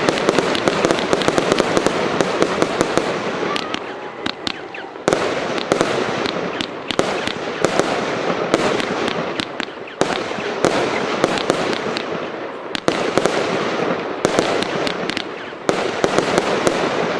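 Broekhoff Backfire Woodbox, a 100-shot compound firework cake, firing a continuous rapid string of shots and crackling bursts, with heavier bangs every few seconds.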